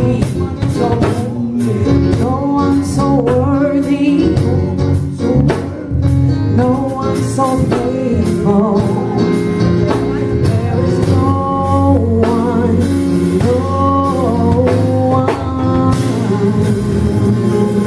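Gospel worship song: a singer's wordless runs over a live band with drum kit and a sustained low accompaniment.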